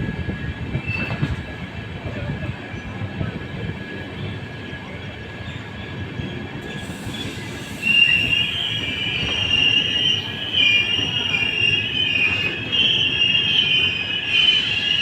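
LHB passenger coaches running on the track with a steady rumble and clatter; about eight seconds in, a loud, high, wavering metal squeal from the wheels sets in and keeps going.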